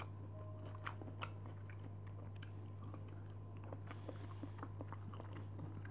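Faint chewing of chicken and rice, eaten by hand, with scattered small clicks over a steady low hum.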